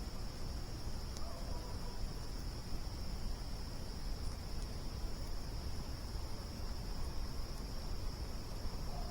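Crickets trilling steadily in one continuous high band over a low rumble, with a couple of faint clicks from the campfire. A faint short falling call sounds about a second in and again at the end.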